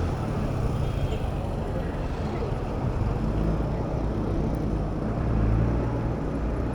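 City street traffic close by: motor vehicle engines running with a steady low hum, and road noise.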